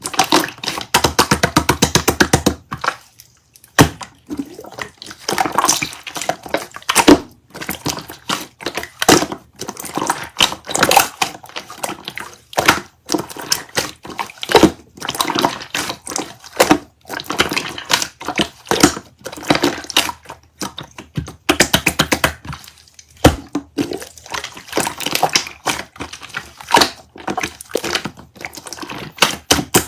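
Slime being pressed and squished by hand, giving crackling pops and clicks: a fast, even run of clicks for the first couple of seconds, then irregular clusters of crackles with brief pauses.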